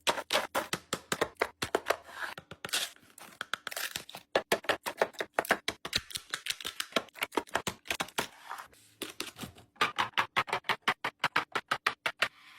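A quick, irregular run of clicks, taps and crinkles: plastic containers and packaging being handled and set down while a refrigerator is organised.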